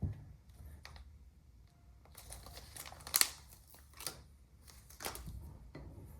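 Rifle parts being handled on a work surface: a series of light clicks and knocks with some rustling, the sharpest click about three seconds in.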